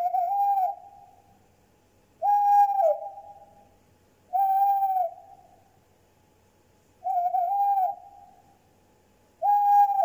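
An owl hooting: five short hoots about two seconds apart, each dropping in pitch at the end and trailing off in an echo.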